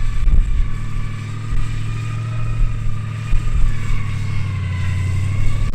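Off-road truck engine running steadily under load while crawling a rock obstacle, a low drone with a faint wavering whine above it.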